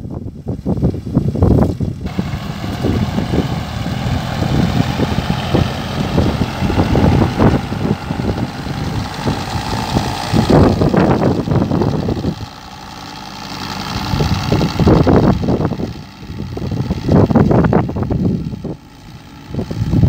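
Tractor engine running steadily, driving the mounted sprayer, with uneven low surges over it.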